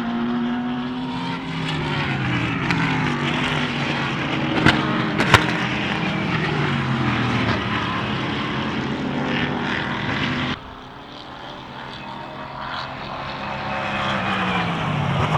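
Race car engines at full song passing trackside, their pitch falling as they go by, with two sharp cracks about five seconds in. The sound drops suddenly after about ten seconds, then another car's engine grows louder near the end.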